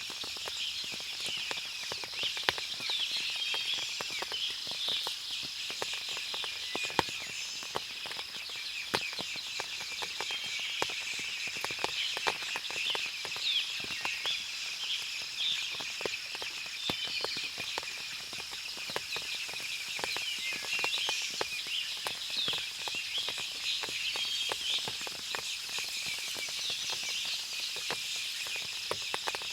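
Forest ambience after rain: many small birds chirping over a steady high insect drone, with frequent sharp ticks of water dripping.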